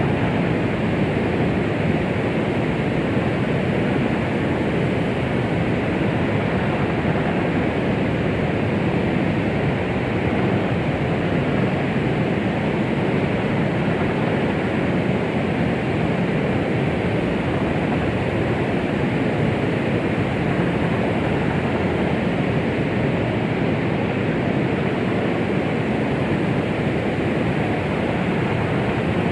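Steady white-noise track for soothing a baby, a constant even rush weighted toward low pitches, with no heartbeat or other rhythm and no change throughout.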